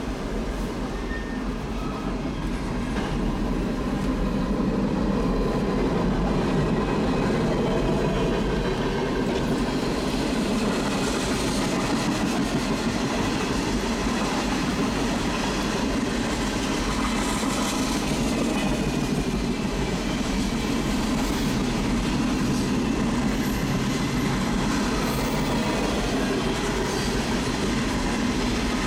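Freight cars of a long mixed freight train, autoracks and then tank cars, rolling past with steel wheels running on the rails: a steady rolling noise that grows a little louder a few seconds in.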